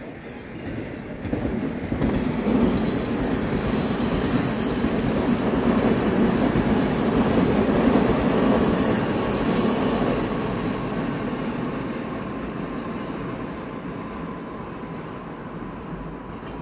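Passenger train passing close by: the rolling rumble of its wheels on the rails swells about a second in, stays loud through the middle, then slowly fades as it pulls away. A thin, steady wheel squeal comes through in the later part.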